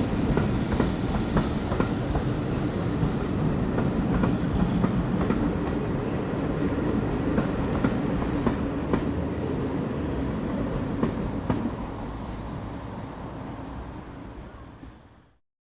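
A train running along the track with its wheels clicking over the rail joints over a steady rumble, fading away until it cuts to silence near the end.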